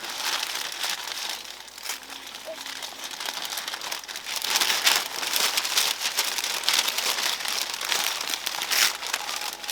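A bag crinkling and rustling as it is handled and wrapped over a pomelo fruit, a dense run of crackles that grows louder about halfway through.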